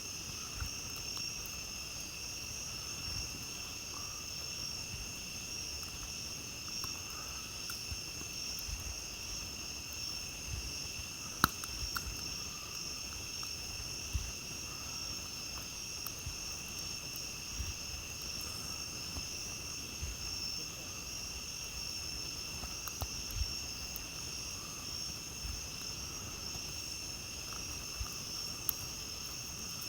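Steady, unbroken chorus of crickets and other night insects, with scattered sharp crackles and pops from a campfire, the loudest about eleven seconds in.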